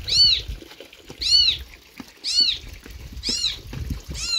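A small animal's high-pitched calls, each rising then falling, repeated five times about once a second.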